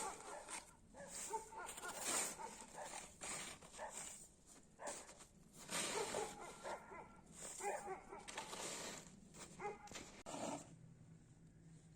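Snow being scraped up and thrown onto garden shrubs, in irregular crunching, rustling scoops, with a few short pitched calls among them.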